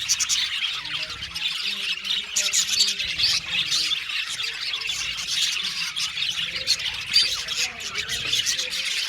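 A flock of budgerigars chattering, with dense overlapping chirps, warbles and squawks that go on without a break.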